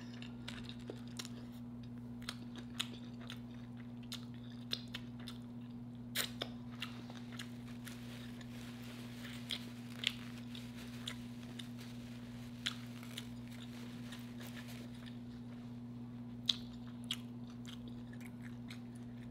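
A person chewing fried lobster tail close to the microphone: scattered soft crunches and mouth clicks. A steady low hum runs underneath.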